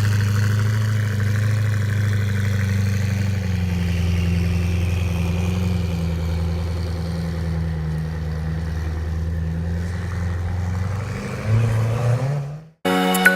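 Koenigsegg Agera RS's twin-turbo V8 running steadily at a low speed, then a short rev rising near the end before the sound cuts off abruptly.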